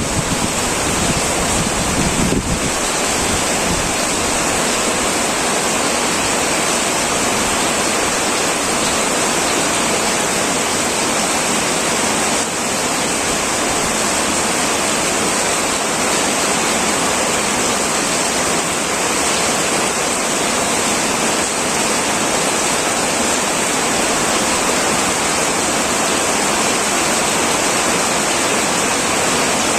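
Heavy rain falling steadily on a metal tin roof, a dense even hiss. A low rumble underneath stops about two and a half seconds in.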